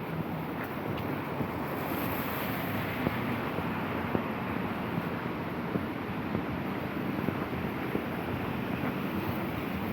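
Steady noise of falling rain and wind on the microphone, with a few scattered light ticks.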